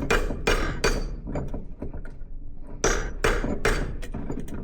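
Hammer blows on steel, driving a stuck, bent spindle out of an air seeder's wheel hub: three quick ringing strikes, a pause of about two seconds with light metal clinks, then four more strikes at the same pace.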